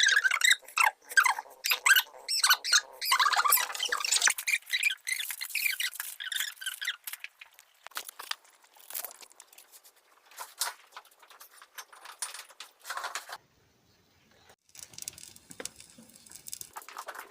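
Cat chewing and crunching food: a dense run of quick crunchy clicks in the first several seconds, then sparser bites.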